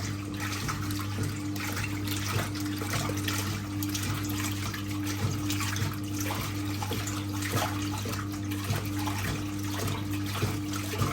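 1958 Hotpoint Empress washing machine running a wash cycle with the lid off: a steady motor hum with a regular pulsing, and water churning and splashing in the tub.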